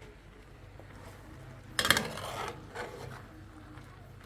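A brief clatter of hard objects knocking together about two seconds in, then one softer knock.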